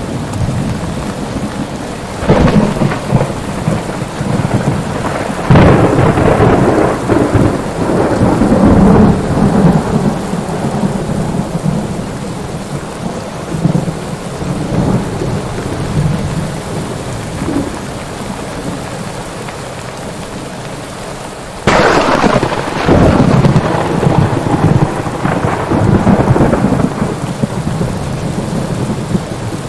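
Steady heavy rain with thunder. One long roll of thunder rumbles from about two seconds in, and a sharp, loud crack breaks about two-thirds of the way through, rolling on for several seconds.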